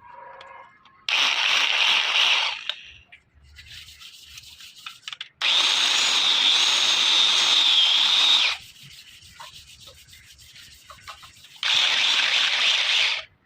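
A power tool rasping against metal in three bursts, the middle one the longest with a wavering high whine running through it.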